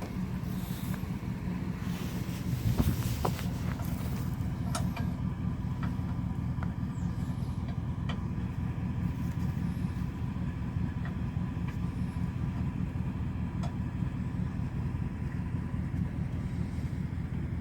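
2005 Dodge Dakota's 4.7-litre V8 running steadily with a low, even exhaust note. A few sharp clicks or knocks sound in the first few seconds, with a brief louder moment about three seconds in.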